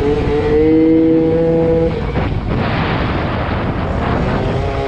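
Yamaha ZR Evo two-stroke scooter engine held at high revs, its pitch climbing slowly. About two seconds in the throttle is eased off and a loud rushing noise takes over, with the engine note faint beneath it.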